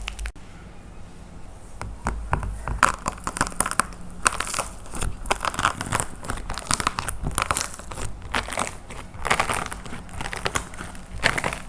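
Dry plaster clay being crushed and crumbled by hand: a dense run of crunches and sharp crackling pops.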